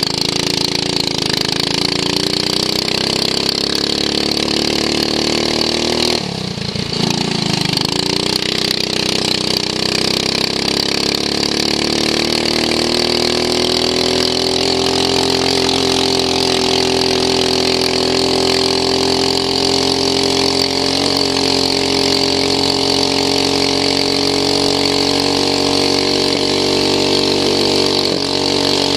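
Racing lawn mower's engine running at high revs, heard from onboard, with wind noise. About six seconds in the revs drop briefly, as when lifting off for a corner, then climb back over several seconds and hold steady.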